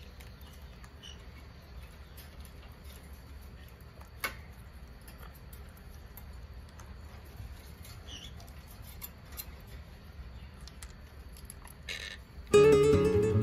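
Monk parakeets pecking and nibbling, making faint clicks and scratches with a few soft chirps and one sharper tap about four seconds in. Strummed acoustic guitar music starts near the end.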